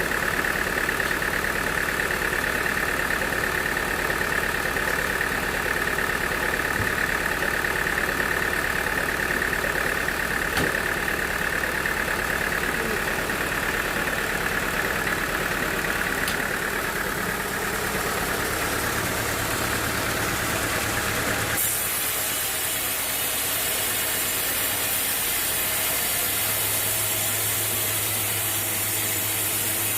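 Sawmill machinery running steadily. About two-thirds of the way in, the sound switches abruptly to a steady high hiss over a low hum.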